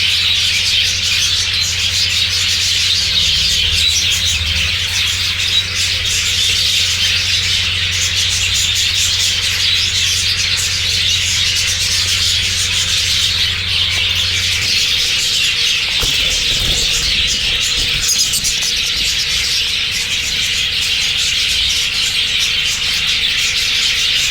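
A large flock of budgerigars chattering and squawking continuously. Underneath, a low steady hum runs and stops a little past halfway.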